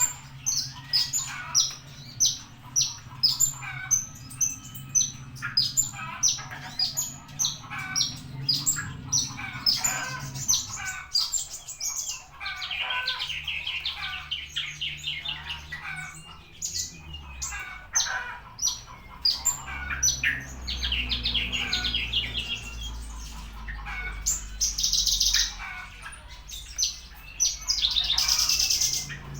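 Javan bush lark (branjangan) singing: a long string of short, sharp chirps, two or three a second, broken several times by fast, dense trilling phrases.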